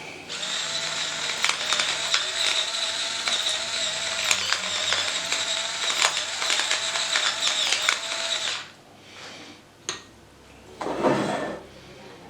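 Small electric kitchen appliance motor running steadily for about eight seconds, with a whine and rattling clicks, then switching off. A brief whoosh follows a couple of seconds later.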